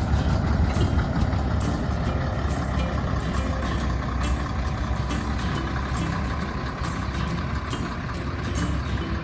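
Diesel engine of a small narrow-gauge train running steadily, a low rumble with scattered short clicks, easing off slightly toward the end.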